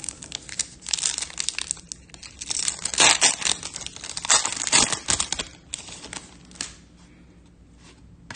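Foil trading-card pack wrapper crinkling and tearing as it is ripped open, busiest over the first five seconds or so, then a few quieter rustles and a click.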